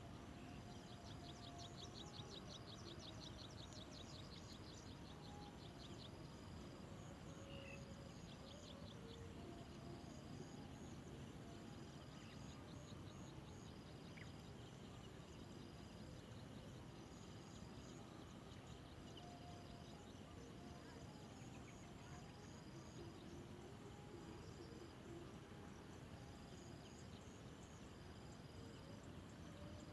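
Faint outdoor insect calls: a short high note repeating about every second and a half throughout, and a fast buzzing trill over the first several seconds, with a few faint distant bird calls.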